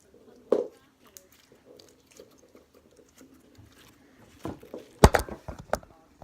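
Slime being squished and pulled by hand, giving sticky clicks and pops: a single pop about half a second in, then a quick run of louder squelching pops near the end.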